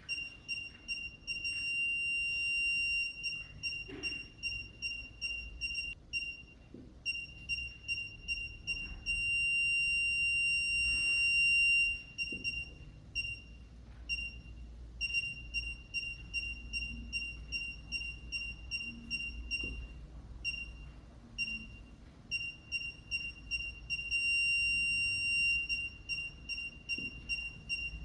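Parking sensor buzzer beeping at one steady pitch, the beeps coming fast and running together into a continuous tone three times. A continuous tone is the sensor's warning that an obstacle is very close. Brief pauses fall in between.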